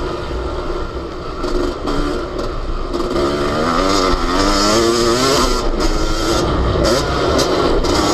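Yamaha YZ250 two-stroke single-cylinder motocross engine heard from on board the bike, revs rising and falling with the throttle and climbing strongly a few seconds in.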